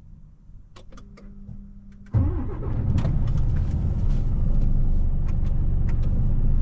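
A few clicks, then the lorry's diesel engine starts about two seconds in, catching at once and settling into a steady idle.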